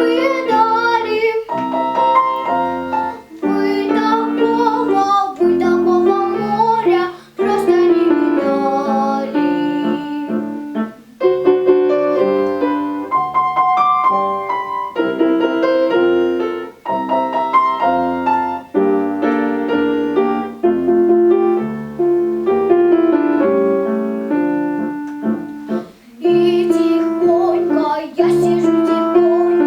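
A girl singing a children's song in Russian, with piano accompaniment.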